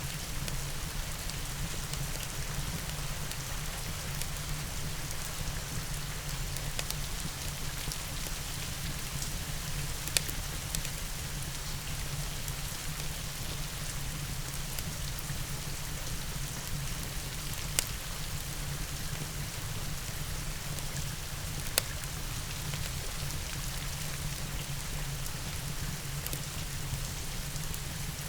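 Steady rain mixed with a fireplace, with three sharp pops from the fire spread across the stretch.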